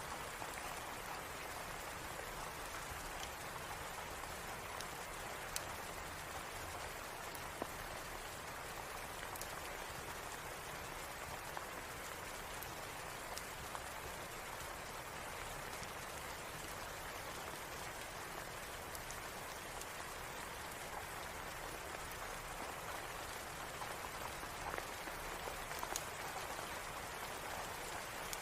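Steady rain falling, with a few scattered sharp clicks.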